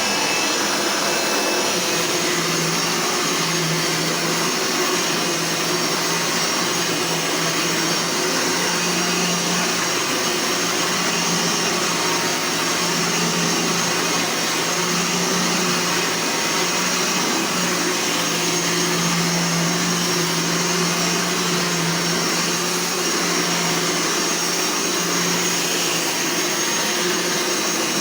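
Eureka Powerline Gold 10-amp upright vacuum cleaner running steadily, its motor whine holding an even pitch.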